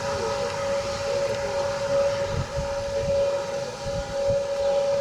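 Airbus A330-900neo's Rolls-Royce Trent 7000 jet engines on approach, a steady high whine, with wind gusting on the microphone.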